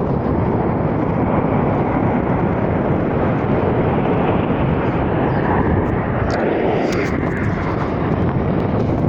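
Military aircraft flying overhead: a loud, steady engine roar.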